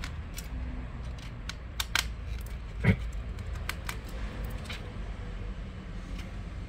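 Scattered small clicks and taps of tools and parts being handled while dismantling a laptop, with a sharper click about two seconds in and a knock near three seconds, over a steady low hum.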